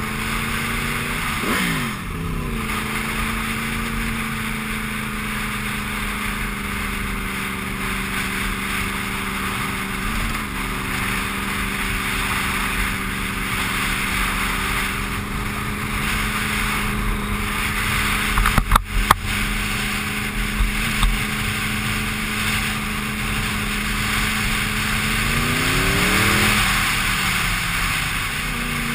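Sport motorcycle engine pulling steadily uphill under wind and road noise. The revs drop sharply about a second and a half in, climb near the end, then fall away again. A few sharp knocks come about two-thirds of the way through.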